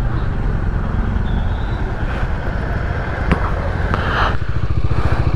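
Bajaj Dominar 400's single-cylinder engine running steadily while riding, with a haze of wind and road noise. A short click a little past three seconds in.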